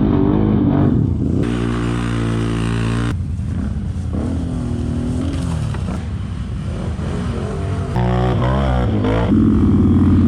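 ATV engines running and revving, the engine note changing abruptly several times, with quick rising and falling revs near the end.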